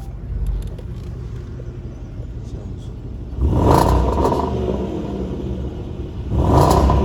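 Range Rover Sport SVR's supercharged 5.0-litre V8 idling through an Urban Automotive modified exhaust with the sports exhaust valves in off mode, revved twice, about three and a half seconds in and again near the end, each rev with a rasp.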